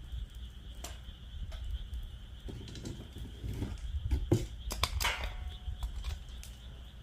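Wood fire in a fire pit crackling, with irregular sharp pops that come thickest about five seconds in. A steady high-pitched trill carries on underneath.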